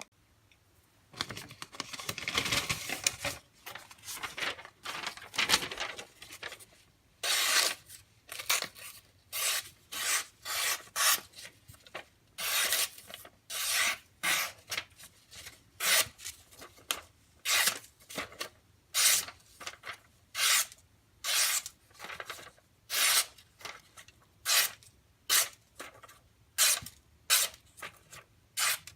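D2 steel knife blade drawn in repeated short rasping strokes, about one or two a second, after a longer stretch of continuous rubbing near the start.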